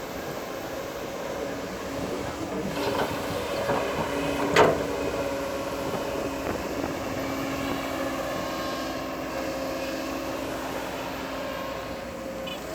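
Bulldozer's diesel engine running steadily at a constant pitch, with one sharp knock about a third of the way in.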